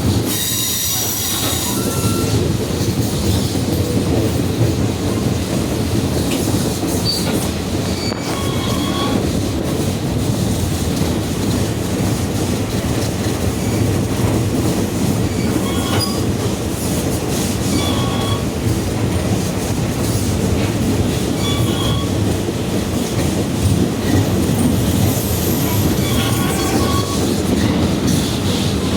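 Passenger train coach rolling along the track with a steady rumble of wheels on rail. Steel wheels squeal against the rail, sharply about a second in, with brief shorter squeals every few seconds after.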